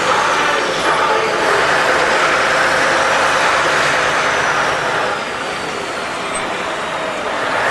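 Scania V8 truck engine running, loud and steady, with a faint high whistle falling slowly in pitch; the sound eases off slightly about five seconds in.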